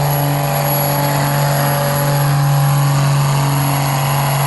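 Truck or tractor pull vehicle's engine held at full throttle while dragging the sled, a loud steady note with a high whine over it.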